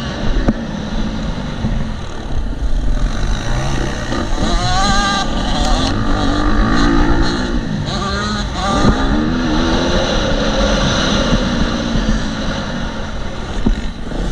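KTM 250 SX-F four-stroke single-cylinder motocross engine revving up and down as the bike is ridden, its pitch rising and falling repeatedly, with heavy wind buffeting on the helmet camera's microphone.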